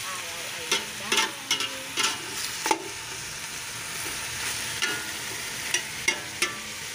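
Chicken pieces sizzling in oil in a cooking pot while being stirred with a spatula: a steady frying hiss with the spatula scraping and knocking against the pot about once a second.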